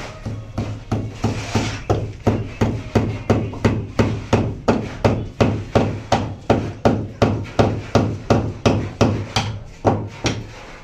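Hammer striking repeatedly in a steady rhythm, about three blows a second, stopping shortly before the end.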